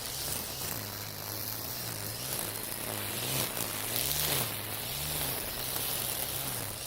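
Cordless Makita 40V brush cutter running with trimmer line slashing through dense weeds: a motor hum that sags and recovers in pitch again and again under the load, over a loud hiss of the line in the grass. It stops near the end.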